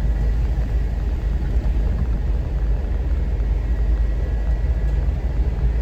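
Vehicle driving along a mountain trail road: steady low engine and tyre rumble.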